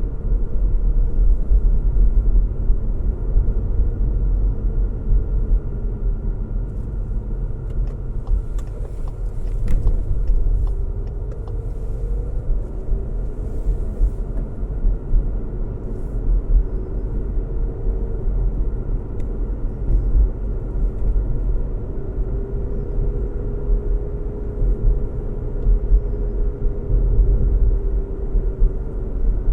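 Car driving steadily along a road: a constant low rumble of tyres and engine, with a faint hum that slowly drifts up and down in pitch.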